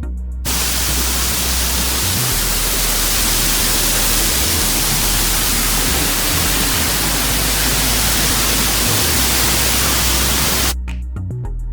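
Loud, steady rushing of a waterfall close to the microphone, cutting in abruptly about half a second in and cutting out near the end, with the bass of background music going on underneath.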